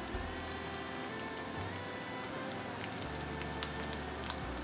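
Ground spices frying in hot mustard oil in a wok: a steady sizzle with scattered small crackles.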